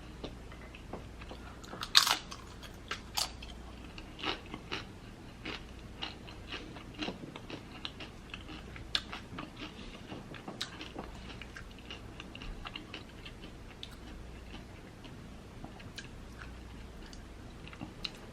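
Close-miked mouth sounds of a person biting and chewing food, with irregular wet clicks and crunches; a sharp, loud crunchy bite about two seconds in and another about a second later.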